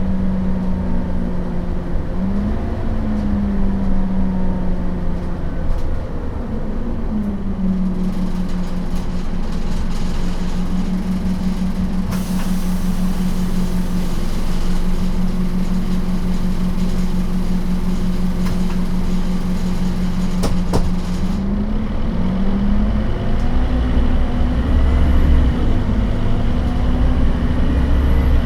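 Scania DC9 five-cylinder turbodiesel of a 2008 Scania K270UB bus with ZF Ecomat automatic gearbox running on the road, its note mostly steady with two brief rises and falls in pitch. A sharp click comes about twenty seconds in.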